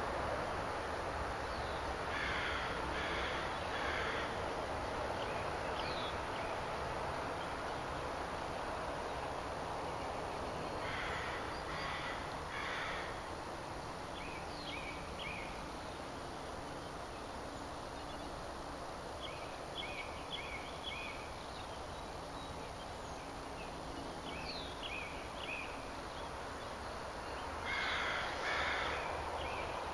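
A bird giving harsh calls in runs of about three, repeated several times, with shorter chirps in between, over a steady rushing outdoor background.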